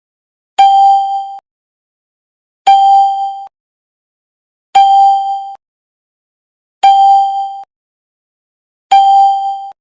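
Piso wifi coin machine sounding its electronic ding over and over by itself: five identical chimes about two seconds apart, each cut off abruptly. The owner takes the repeating chime for a fault in the machine.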